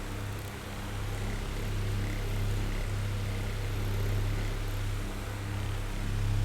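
Oscillating electric fan running: a low motor hum under a steady rush of air. It dips in level in the middle and swells back up near the end.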